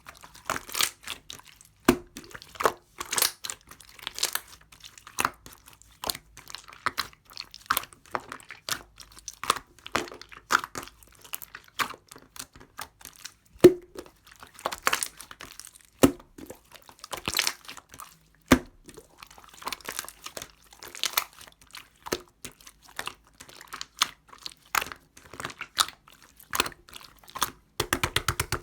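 Orange clear slime with a jelly-like texture being squished and handled by hand: irregular sticky clicks and crackles, some with a soft low thud, and a quick run of clicks near the end.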